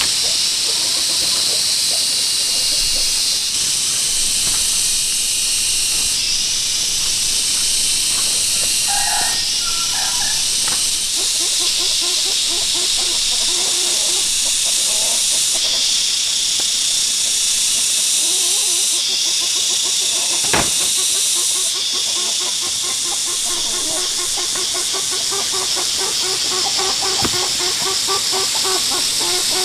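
A steady, loud high hiss with chickens clucking over it, the clucking more frequent in the second half, and one sharp click about twenty seconds in.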